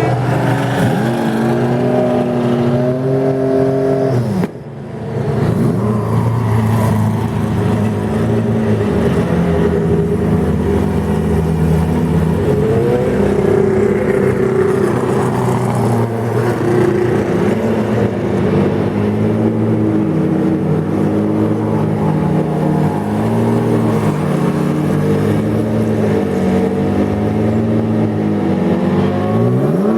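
WEC endurance race car engines running as the cars pull away down the pit lane, their pitch rising and falling over and over. The sound dips briefly about four seconds in, and sharp revs rise near the end.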